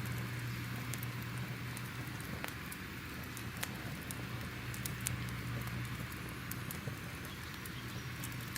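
Crackling fire ambience: irregular sharp pops and snaps over a steady low hiss and rumble.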